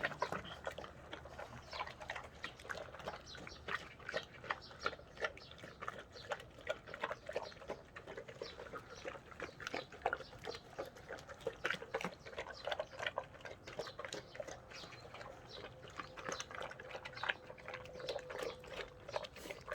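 A Cane Corso eating dried pollack from a pot: steady chewing with many quick, irregular wet smacks and crunches.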